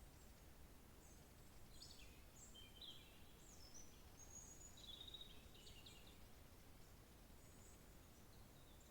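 Faint songbird song: short high chirps and whistled phrases, busiest in the first half, over a low background rumble.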